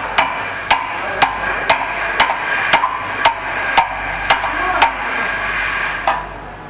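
Metal being struck with a hammer at a steady pace, about two ringing blows a second, which stop about five seconds in; one weaker knock follows near the end.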